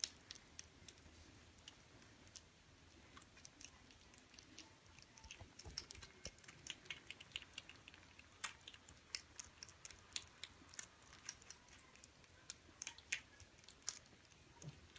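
Faint, irregular small clicks and ticks, several a second, over a low room hiss.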